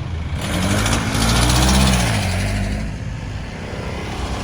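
A motor vehicle passing close by on the road. Its engine and tyre noise swells to a peak about two seconds in, the engine note drops in pitch as it goes past, and the noise fades again behind it.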